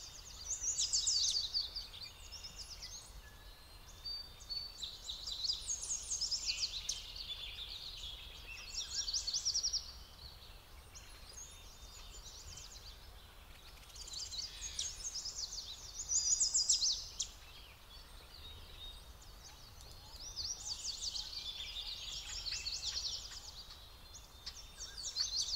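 Songbirds singing high, rapid trilled phrases, each one to three seconds long, repeating every few seconds over faint steady background noise.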